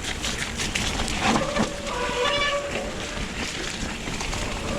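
Specialized Turbo Levo e-mountain bike ridden over a wet, muddy trail: steady tyre and trail noise with frequent knocks and rattles from the bike, and a brief squeal about two seconds in.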